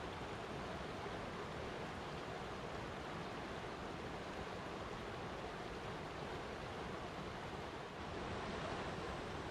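Flowing water rushing steadily and evenly, without a break.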